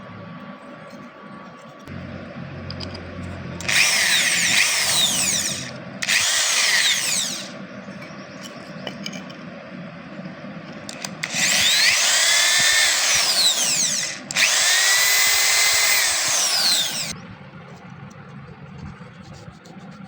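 Handheld electric power tool running in four bursts of about one and a half to three seconds each, its pitch sliding as it works the piece.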